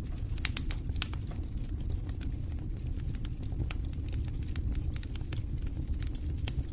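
Wood fire burning in a fireplace: a steady low rumble of flames with frequent sharp crackles and pops, two louder pops about half a second and a second in.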